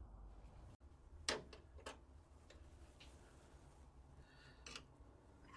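Near silence, with faint, irregular crackles and ticks from a freshly lit small wood-burning log stove.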